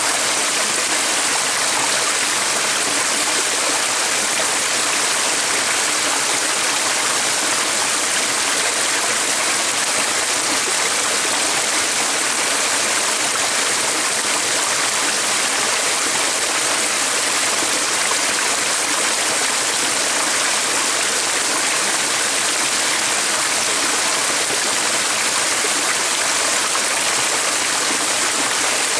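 Running water rushing steadily, like a stream, as an even hiss with no breaks or changes.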